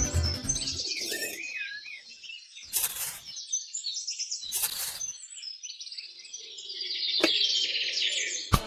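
Small birds chirping and warbling in quick, wavering high notes, with two brief noisy swishes about three and about four and a half seconds in, and a couple of sharp clicks near the end.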